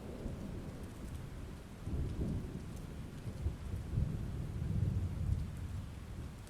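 Heavy rain falling steadily while thunder rumbles low, swelling about two seconds in and rolling loudest around four to five seconds before fading.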